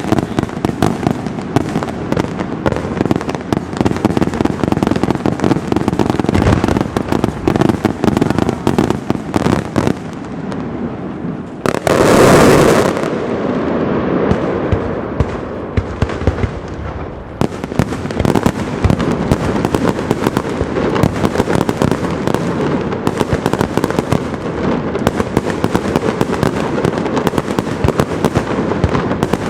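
Castillo fireworks display: a rapid, unbroken barrage of bangs and crackles from aerial shells. About twelve seconds in comes one louder, longer blast; the barrage thins briefly after it, then builds back to a dense run of reports.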